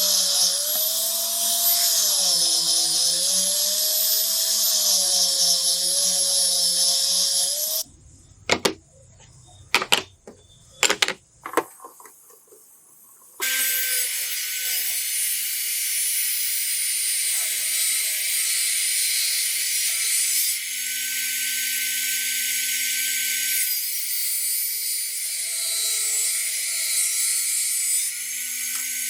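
A small high-speed power tool running under load, its high whine wavering in pitch. It stops after about eight seconds, leaving a few seconds with several sharp clicks, then runs again at a steadier pitch.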